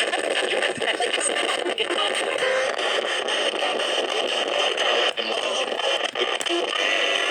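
Radio static: a loud, steady, rough hiss, cut by a few brief dropouts, with only faint traces of a broadcast voice beneath it.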